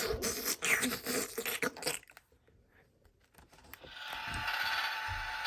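A run of scraping, rustling bursts, then, from a little before four seconds in, a steady hissing engine-like noise from the small speaker of a children's truck sound book.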